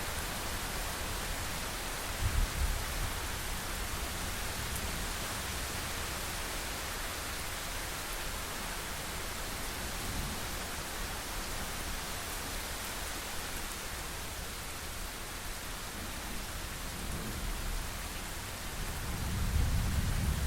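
Steady rain with low rolls of thunder: a short rumble about two seconds in, and a longer one building near the end.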